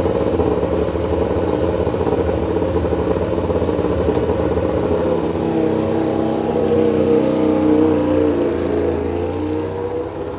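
MotoGP prototype motorcycle engine running in the pits, held at a fast idle with the revs rising a little past the middle and dropping back near the end.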